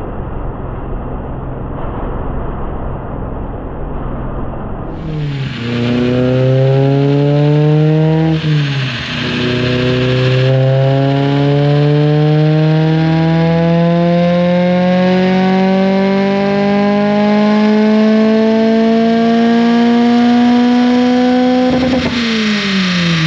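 Mazda Miata NB2 1.8 VVT four-cylinder, with a Racing Beat header, mid pipe and race muffler, revving at wide-open throttle on a chassis dyno. A short climb is cut by a sudden drop about eight seconds in. Then comes one long, steady rise in pitch lasting over ten seconds, which falls off as the throttle is released near the end. Before the pull, for about five seconds, there is a duller, steady engine sound.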